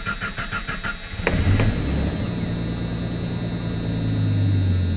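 Jeep Comanche engine cranking on the starter with a fast, even rhythm for about a second, then catching and running steadily. This is the start of a start-and-stall with the ballast resistor unplugged, which the mechanic believes leaves the fuel pump powered only while cranking.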